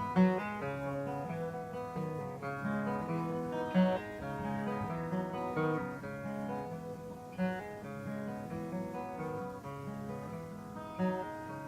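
Acoustic guitar played live, picked and strummed notes with a few stronger accents, ending an instrumental passage of the song.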